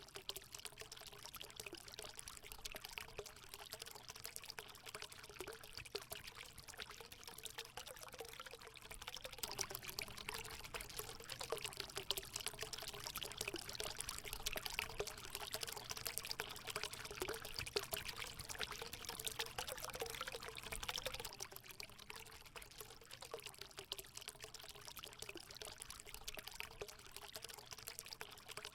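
Hot spring water pouring and trickling steadily into a pool, a little louder through the middle.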